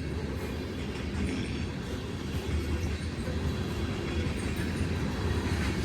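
Freight train of covered hopper cars rolling past, a steady rumble of steel wheels on the rails with a light, uneven low pulsing.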